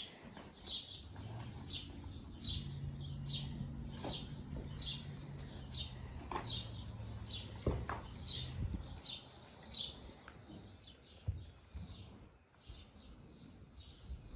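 A small bird chirping over and over, about two short high chirps a second, fading near the end. A low hum runs underneath for the first half, and there are a few light clicks.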